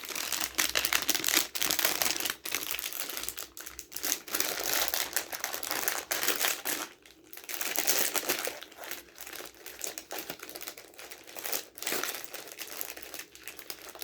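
Plastic candy packaging crinkling and crackling as it is handled and opened, in irregular bursts with many small clicks.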